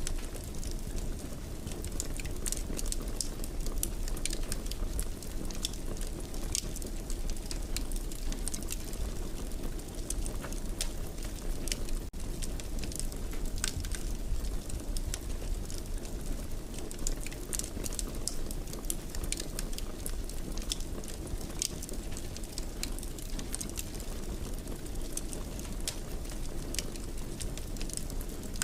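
Wood fire crackling in a fireplace: a steady low rumble of the flames with frequent sharp pops and snaps.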